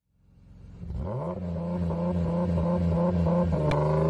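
A car engine fades in and settles into an idle with a rhythmic, pulsing beat of about three pulses a second. A sharp click comes near the end.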